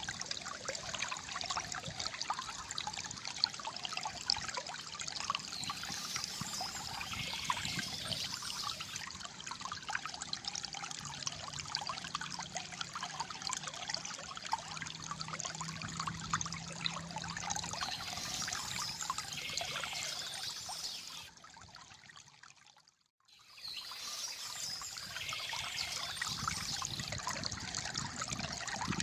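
Shallow water trickling and gurgling steadily, with many small bubbling splashes. About three-quarters of the way through, the sound fades almost to nothing for a second or two and then returns.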